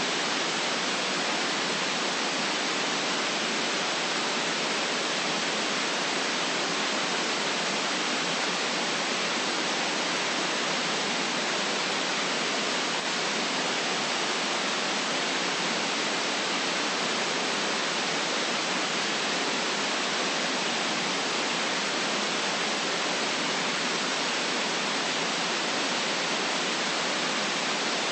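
Steady white noise: an even, unchanging hiss with hardly any low rumble.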